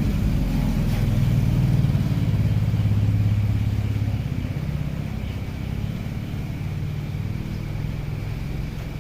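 A motor vehicle engine running with a low hum, growing louder over the first couple of seconds and then fading away, as of a vehicle passing by.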